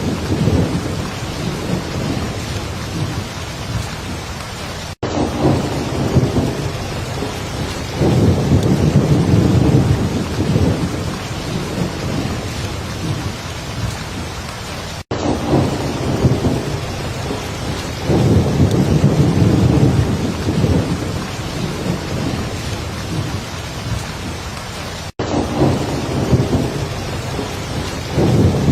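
Heavy rain falling steadily, with low rumbles of thunder swelling every few seconds. The sound drops out for an instant about every ten seconds, at the seam of a looped recording.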